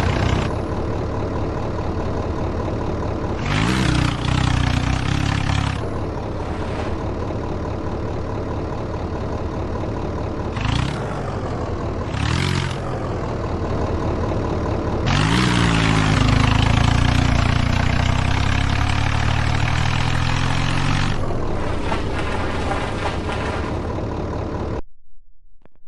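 Tractor diesel engines running hard, revving up and falling back several times, with a longer stretch held at high revs near the middle. The sound cuts off suddenly near the end.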